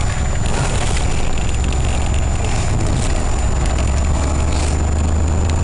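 1993 EZGO gas golf cart engine running steadily just after a cold start, warming up at low speed. It is a low, even drone.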